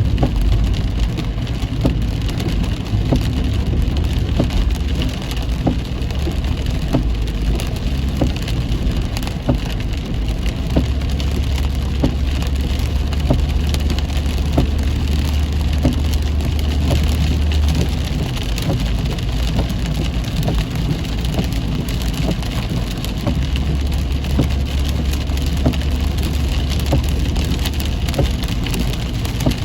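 Heavy rain pattering on a moving car, dense with drops, over the low steady rumble of the car on the road.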